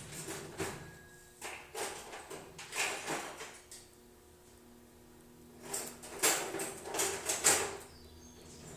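Kitchen drawer being opened and rummaged: a run of short knocks and rattles, coming in two clusters with a quieter stretch between.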